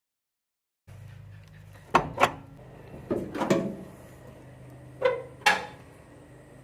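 Several sharp clunks and knocks of something being handled: a pair, then a short rattling cluster, then another pair, over a low steady hum.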